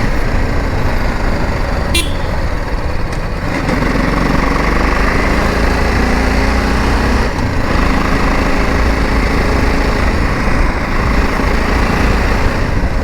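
Motorcycle engine running steadily on the move, under a loud, steady rush of wind and road noise.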